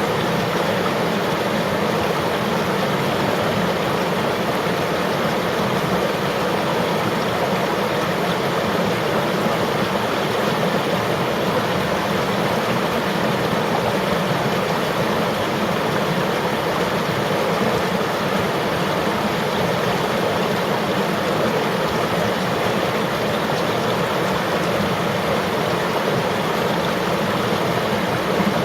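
Flowing river water rushing over rocks, a steady, unbroken noise with no separate splashes.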